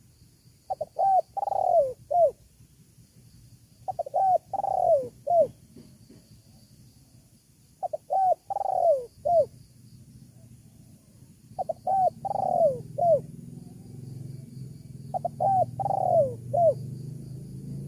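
Spotted dove cooing: five repeated phrases about every three and a half seconds, each two short notes, a longer note that falls in pitch, and a short closing note. A low hum builds beneath the calls in the last few seconds.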